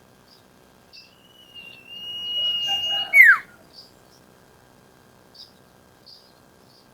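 Iora (sirtu) calling: one long, steady whistle held about two seconds, ending in a sharp falling note, with short high chip notes scattered before and after.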